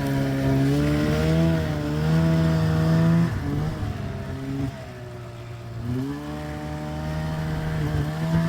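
Snowmobile engine running under throttle, its pitch rising and falling; it eases off about three seconds in and picks back up again about six seconds in.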